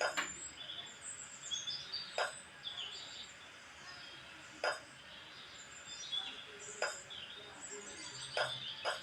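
Small birds chirping and warbling, with a sharp tap every couple of seconds, of small hard objects knocking together, quickening to two taps close together near the end.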